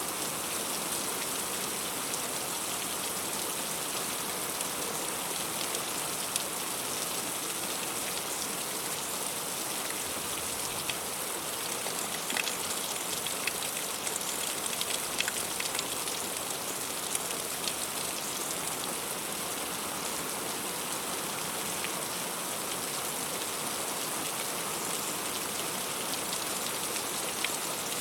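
Heavy rain falling steadily: a dense, even hiss with individual drops striking close by, a few sharper, louder drop hits near the middle.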